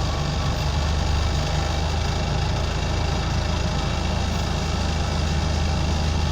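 Scania OmniCity bus engine idling steadily with a deep, even hum, heard from inside the bus.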